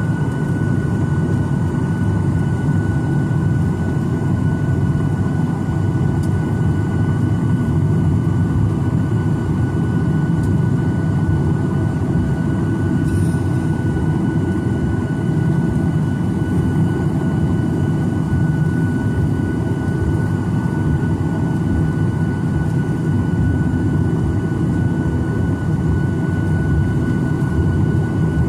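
Steady jet engine and airflow roar of a Boeing 737-900ER's CFM56-7B turbofans, heard inside the passenger cabin, with a thin high whine over the low rumble.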